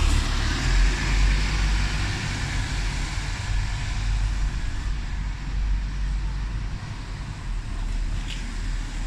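Scania N230UD double-decker bus's five-cylinder diesel engine running with a low rumble and road noise, slowly growing quieter.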